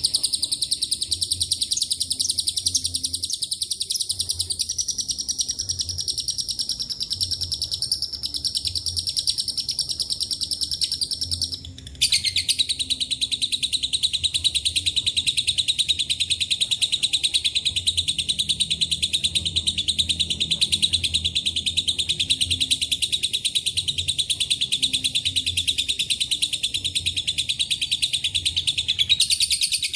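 Lovebird giving the long, unbroken ngekek: a rapid high chattering trill. About twelve seconds in it breaks off abruptly, and after a short gap a second long trill, slightly lower in pitch, takes over.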